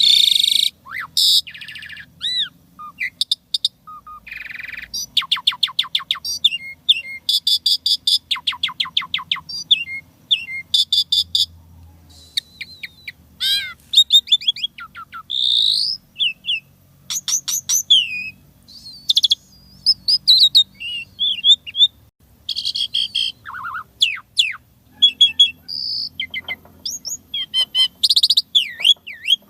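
Asian pied starling (jalak suren) singing a busy, varied song rich in imitated notes: clear whistles, rising and falling glides, and fast rattling runs of repeated short notes.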